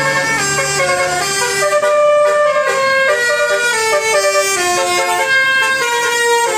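A loud melody of held, horn-like pitched tones, stepping from note to note every few tenths of a second.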